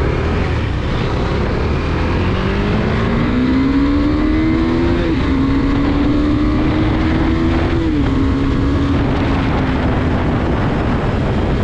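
Motorcycle engine accelerating through the gears: its pitch climbs, drops at an upshift about five seconds in, climbs again, drops at another shift about eight seconds in, then holds steady. Heavy wind rumble runs under it.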